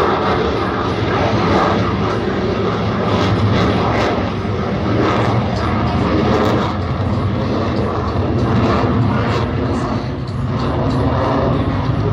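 Fighter jet's engines running loud and steady in flight, most likely the F-22 Raptor's F119 turbofans during its demonstration.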